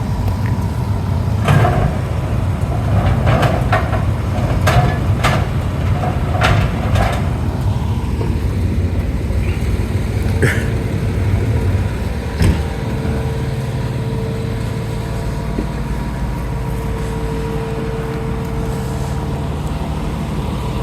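Fire truck's diesel engine idling with a steady low rumble. Several sharp clanks in the first few seconds.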